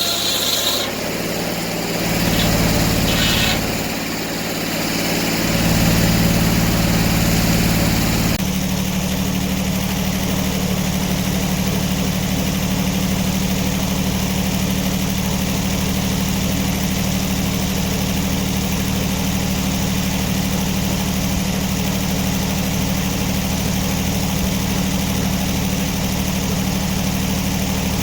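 An engine running. A high squeal dies away in the first second, and the engine's speed rises and falls twice over the first eight seconds before it settles into a steady, even run.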